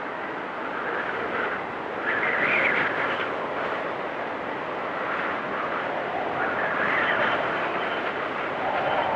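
Storm wind blowing in gusts, with a whistling howl that rises and falls in pitch, swelling about two seconds in and again around seven seconds.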